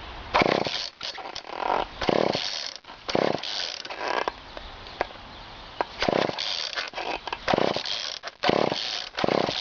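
Two-stroke engine of a GTI 15 weed whacker running roughly just after a cold start, rising in short loud bursts at uneven intervals and dropping back between them as the throttle is worked. The engine won't hold an idle: it dies whenever the throttle is let off.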